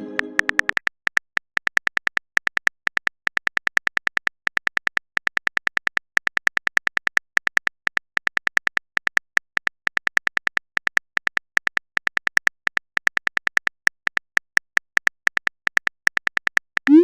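Simulated smartphone keyboard typing clicks: short, sharp taps, several a second and unevenly spaced, as a text message is typed out.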